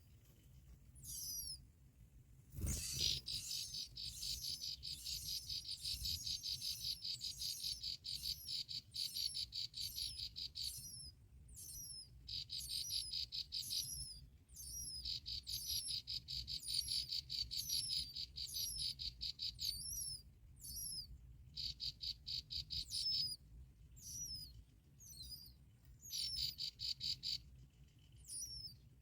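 Bar-winged prinia nestlings begging at the nest: long trains of rapid, evenly repeated high buzzy notes lasting several seconds each, broken by short falling chirps. A soft bump about three seconds in starts the first long train.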